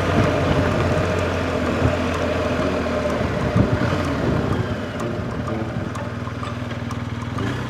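BMW R1250GS boxer-twin engine running, quietening about halfway through and settling to a steady idle.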